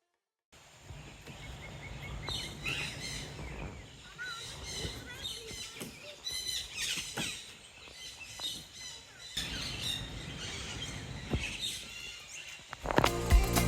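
Many birds chirping and calling over a steady low background rumble. Music comes in near the end.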